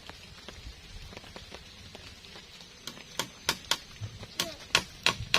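Faint steady background noise, then from about three seconds in a quick run of sharp knocks, roughly three a second.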